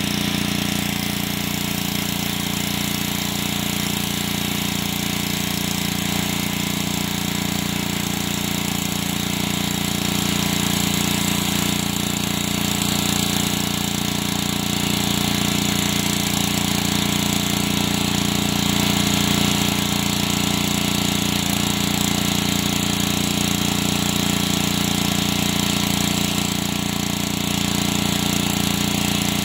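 Gas pressure washer's 5-horsepower Honda engine running steadily at working speed, with the even hiss of the high-pressure water spray over it.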